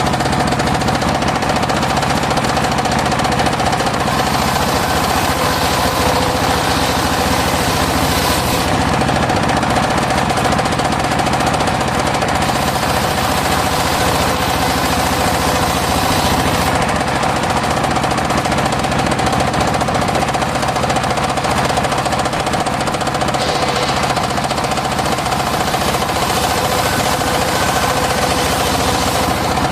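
Homemade engine-driven circular saw running steadily and without a break while sawing mahogany, a constant loud mechanical drone with a fast knocking rattle.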